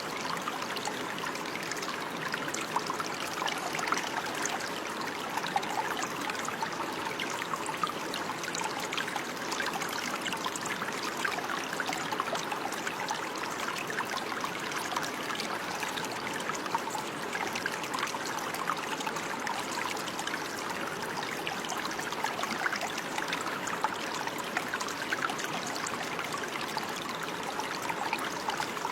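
Running water, a stream or brook trickling and splashing over stones with a steady, unbroken babble of small droplet splashes.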